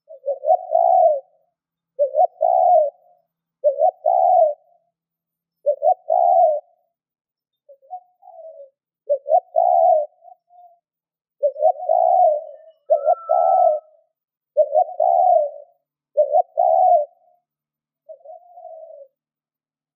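Spotted dove cooing: a steady series of short coo phrases, one every second or two, each a quick note or two followed by a longer coo. This is the bird's cooing call, played as a lure to stir up wild doves.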